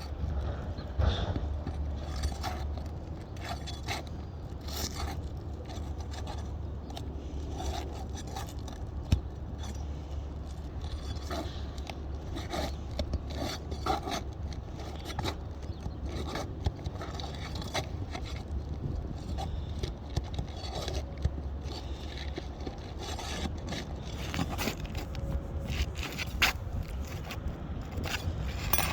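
Asphalt roof shingles being scraped, pried and slid against one another, with irregular scrapes and clicks and a sharp knock about nine seconds in, over a steady low rumble.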